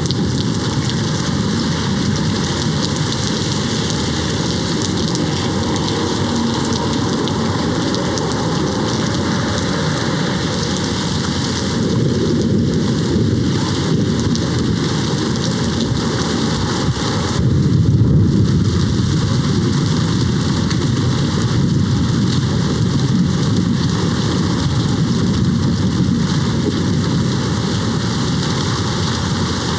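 Steady heavy rain falling on a window. A low roll of thunder swells a little past the middle and fades back into the rain.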